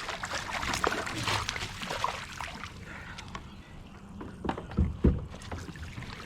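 Water splashing and sloshing against a kayak, with small clicks, then two heavy knocks on the hull about five seconds in.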